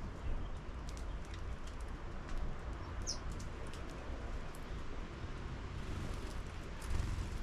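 Sparrows at a 3D-printed bird feeder: scattered light taps and clicks, with a single short high chirp about three seconds in, over a steady low rumble.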